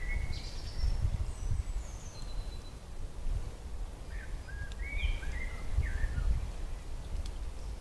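A songbird singing short phrases of quick chirping notes, one at the start and another about four seconds in, over a steady low outdoor rumble.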